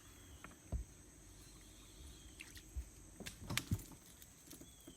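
Scattered knocks and clicks of fishing gear being handled in a boat, with a louder cluster about three and a half seconds in, over a steady high-pitched drone of insects.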